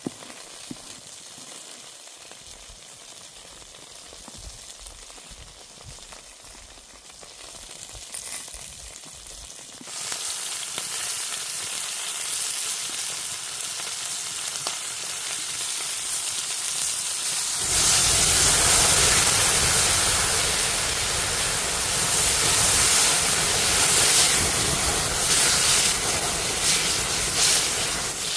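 Hot oil sizzling as food fries. The sizzle starts suddenly about a third of the way in and grows much louder about two thirds in. Before that there are only a few faint clicks.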